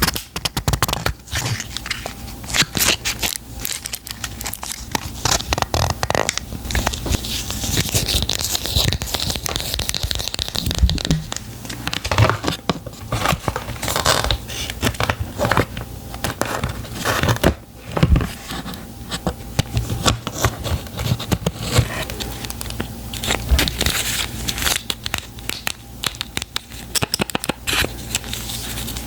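Close-miked packaging being handled and opened by hand: crinkling, tearing and scraping with many small irregular clicks and rustles.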